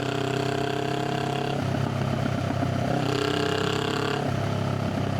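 Honda Rebel 500 parallel-twin motorcycle exhaust running at a steady engine speed. A steady droning tone rides over the rumble, fades about a second and a half in, comes back about three seconds in and fades again just after four seconds.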